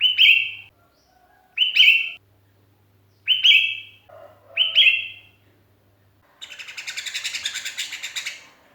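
Sooty-headed bulbul (kutilang) giving four short, loud whistled calls about a second and a half apart, each a quick upslurred note into a held whistle. Near the end comes a rapid chatter of about ten notes a second that lasts about two seconds.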